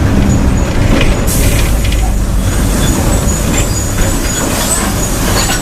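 Mercedes-Benz OF-1722M bus diesel engine running, with a strong low engine sound throughout. About a second in, a long hiss starts and lasts several seconds, with faint thin whistling tones above it.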